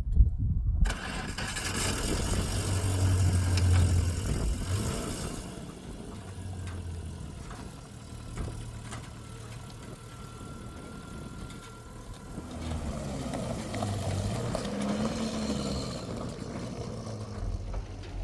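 A vehicle engine running, louder in the first few seconds, dropping in the middle and picking up again later.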